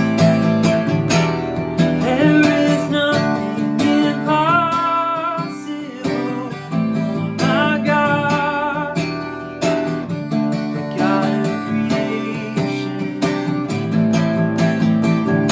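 Acoustic guitar strummed steadily under a man singing a worship song. Two long held notes waver, about four and eight seconds in.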